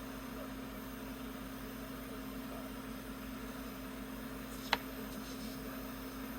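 Jeweller's soldering torch flame hissing steadily while heating a silver pendant for soldering, with a single sharp click nearly five seconds in.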